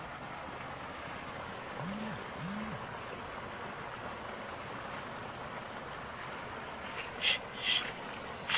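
Steady rushing noise of water and wind, with two brief low calls about two seconds in. Near the end, dogs start barking in short loud bursts, twice in the last second and a half.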